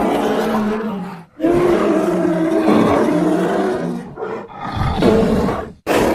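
Bear roaring and growling, several calls in a row: one ends about a second in, a longer roar runs to about four seconds, then shorter growls, and another roar starts near the end.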